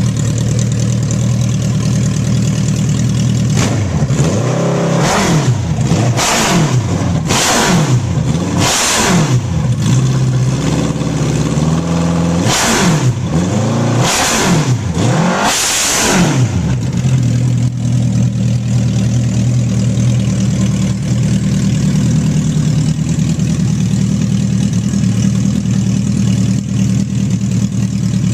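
Suzuki Hayabusa inline-four motorcycle engine in a car, idling steadily, then blipped to high revs about seven times in quick succession, each rev rising sharply in pitch and dropping back. It settles back to a steady idle a little past halfway.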